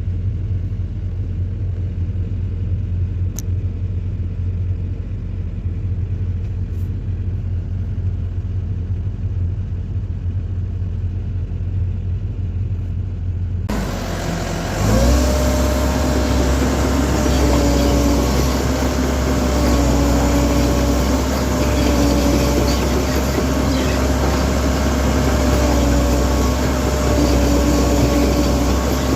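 Excavator engine running steadily with a low rumble. About halfway through the sound changes abruptly to a louder, fuller run with a steady whine over it.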